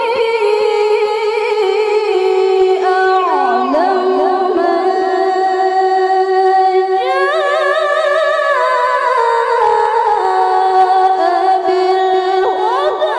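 A woman reciting the Qur'an in the melodic tilawah style, drawing out a long ornamented phrase in a high, clear voice. The melody dips briefly a few seconds in and steps up in pitch about halfway through.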